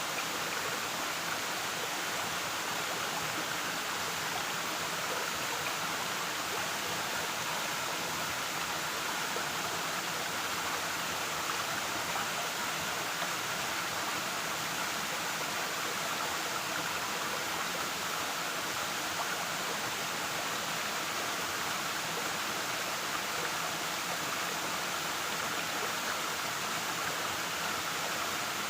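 Waterfall pouring: a steady, even rush of falling water with no breaks or changes.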